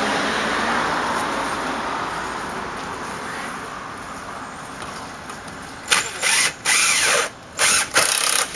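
A vehicle going by, its steady noise fading away over several seconds. Then, from about six seconds in, a run of short, loud, noisy bursts with brief gaps between them.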